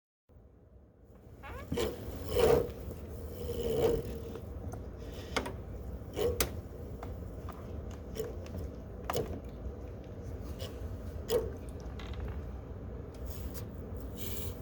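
Irregular scraping and clicking in cat litter over a steady low hum, the loudest scrapes about two and a half and four seconds in.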